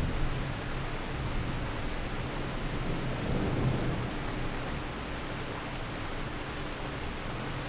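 Steady rain hiss with a low thunder rumble that swells about three and a half seconds in and then dies away.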